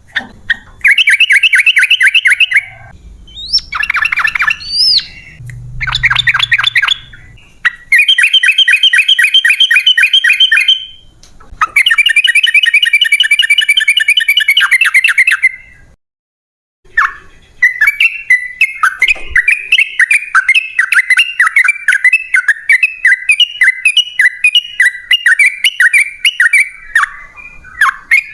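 Yellow-vented bulbul (trucukan) singing in rapid chattering runs of quickly repeated notes. The first half comes in bursts of a second or a few seconds with short breaks between them. From a little past halfway there is one long unbroken run.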